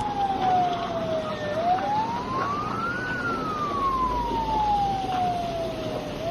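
A siren wailing in slow sweeps. The single tone drops, climbs to a peak about three seconds in, slides slowly back down, and starts climbing again near the end.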